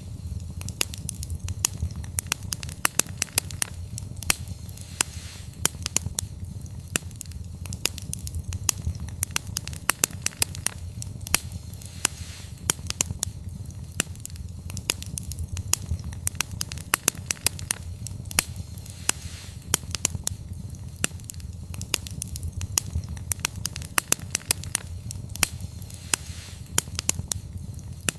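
Wood fire burning: dense sharp crackles and pops, several a second, over a steady low rumble of the flames.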